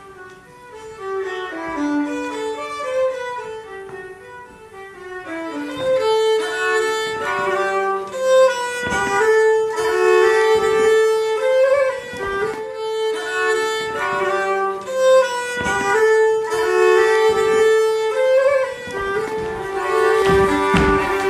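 A solo Hardanger fiddle plays a bowed melody. It starts softly and grows louder about six seconds in.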